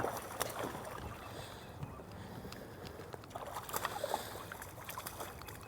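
Light knocks and clicks of handling and gear on a small fishing boat, over a low steady wash of water and wind.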